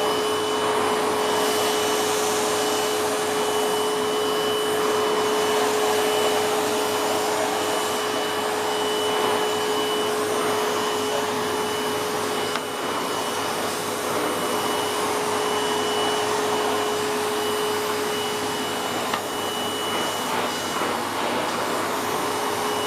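Bagless 1380W vacuum cleaner running steadily, a constant rushing of air with a steady whine from the motor.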